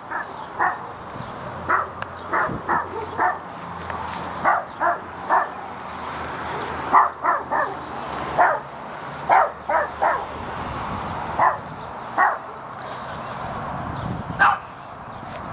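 A dog barking over and over, short sharp barks coming irregularly about once or twice a second, with a few short pauses.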